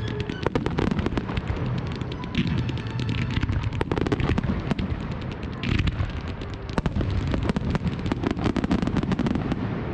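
Fireworks display: fan barrages of comets launching from the ground and aerial shells bursting, heard as a dense, irregular run of sharp bangs and crackles over a low rumble.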